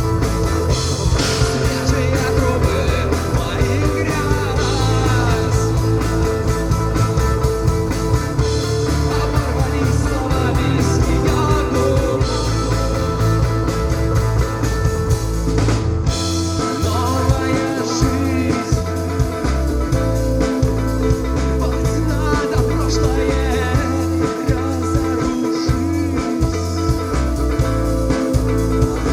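Rock band playing live: electric guitars over bass and drums, with a wavering melodic line that may be a sung or lead-guitar part.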